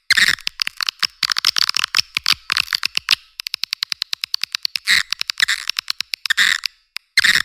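Swiftlet lure call: fast trains of dry clicks and chirps from swiftlets, coming in bursts of a second or so with short gaps between them, all pitched high and cut off below about 1 kHz. It is the call played to draw swiftlets in to roost and nest.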